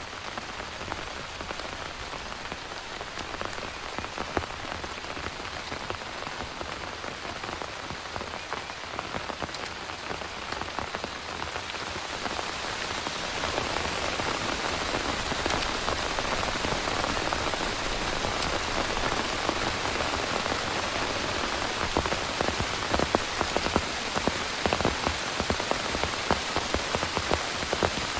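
Heavy rain falling steadily, a dense patter of individual drops over a constant hiss, growing louder about halfway through.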